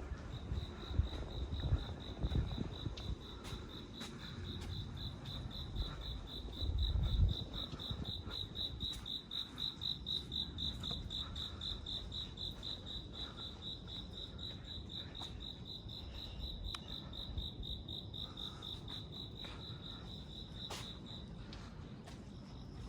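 A cricket trilling steadily in one high, rapidly pulsing tone that stops near the end, with scattered faint ticks of rain dripping. Low rumbling thumps in the first seven seconds, the loudest about seven seconds in.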